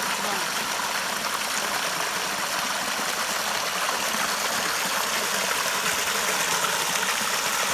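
A stream's water running steadily: an even, constant rushing noise.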